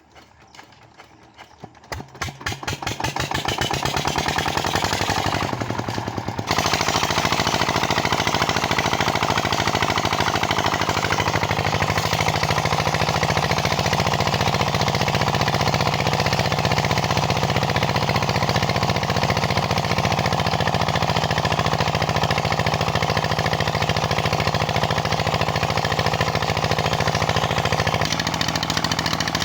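Petter diesel engine driving a tubewell pump, running steadily with an even, rapid beat of firing strokes. It grows louder over the first few seconds and steps up suddenly about six seconds in.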